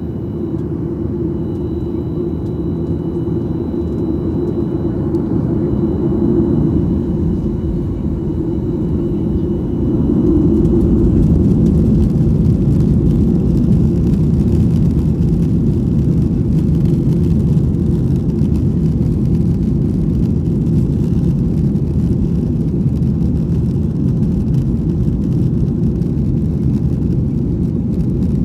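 Boeing 737-800's CFM56-7B turbofan engines at takeoff power: a loud, steady, low rumbling noise that grows louder over the first ten seconds, stepping up at about ten seconds, then holds. A thin high whine fades out in the first few seconds.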